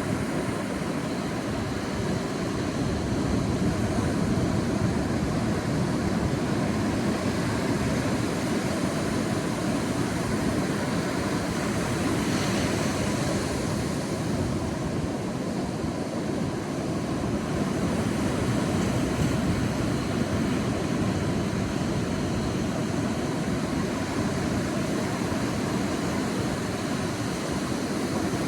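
Sea surf washing onto a beach: a steady rush of waves that rises and falls gently every few seconds.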